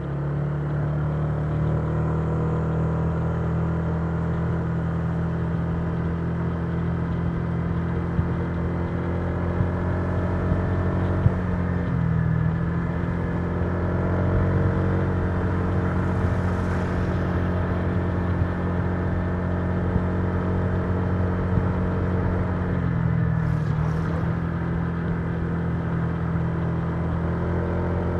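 Honda Giorno 125 scooter's single-cylinder engine running at a steady cruising pace, its pitch dipping briefly twice as the throttle eases and then picking up again.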